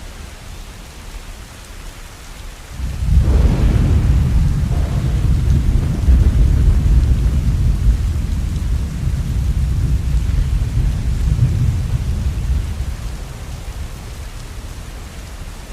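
A long roll of thunder over steady rain: a deep rumble breaks in suddenly about three seconds in, lasts some ten seconds and slowly fades.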